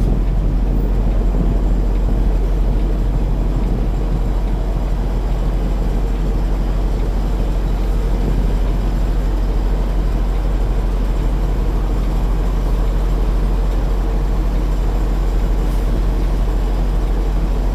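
Semi-truck tractor's diesel engine running steadily at low revs while the rig is slowly manoeuvred to back into a dock, with a constant low hum.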